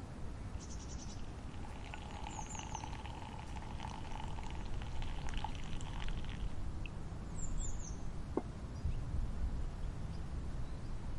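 Birds chirping outdoors: two short groups of quick, high, falling chirps over a steady low background rumble.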